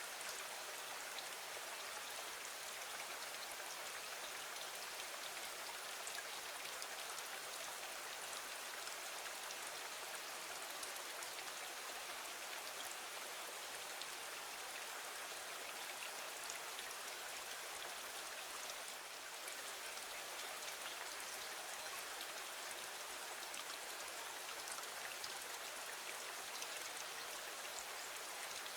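Steady rain: an even hiss dotted with many small ticks of drops.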